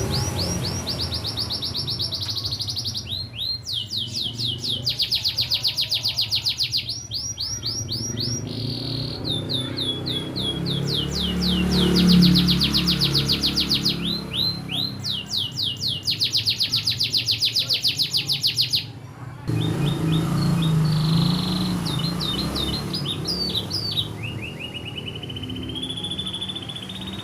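Canary singing fast, rapidly repeated chirp trills in runs of a few seconds with short breaks between them: ciblek (bar-winged prinia) song learned as filler phrases.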